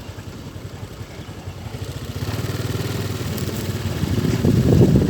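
Diesel engine of a Mitsubishi Fuso Fighter truck loaded with nearly 20 tons of sugarcane, pulling away under load. Its low, pulsing sound grows louder from about two seconds in.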